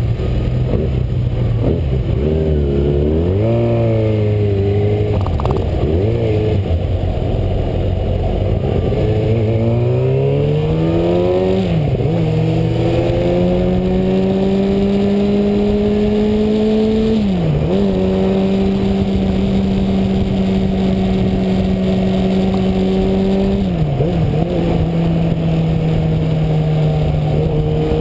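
Sport motorcycle engine under way: the revs rise and fall for the first several seconds, then the pitch climbs steadily and drops sharply at three upshifts, with wind rumble throughout.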